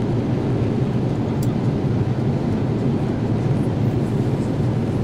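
Steady low rumble of engine and airflow noise inside the cabin of a Boeing 787-8 Dreamliner.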